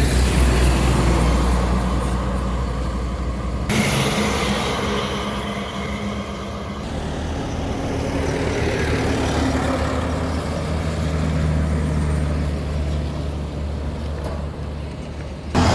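Heavily loaded Tata trucks running on a highway: a steady low diesel engine drone with tyre and road noise. The sound changes abruptly about four and seven seconds in and again near the end.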